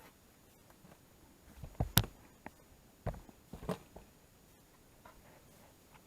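Knocks and thumps of handling in a boat as a large pike is put back in the water: a few bumps building to one sharp knock about two seconds in, then another group of knocks about a second later.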